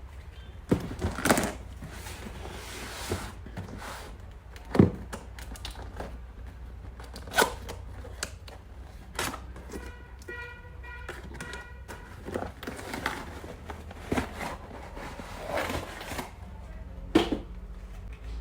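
A cardboard parcel being unboxed: tearing and rustling of packaging with repeated knocks and thuds. A short stuttering tone sounds about ten seconds in.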